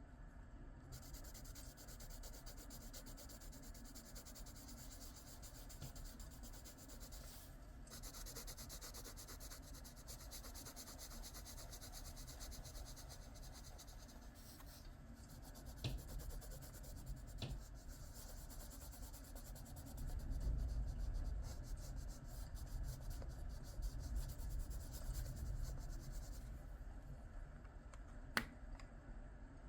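Coloured pencil shading on paper: a steady scratchy rubbing made of rapid back-and-forth strokes. It stops near the end, and a few sharp clicks come through, one just before the end.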